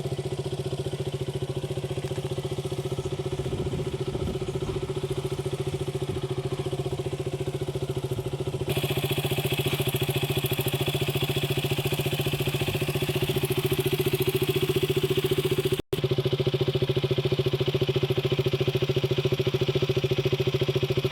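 KTM RC 200's single-cylinder engine idling steadily through its exhaust. About 9 seconds in, the sound turns abruptly louder and brighter. Near the end it drops out for an instant.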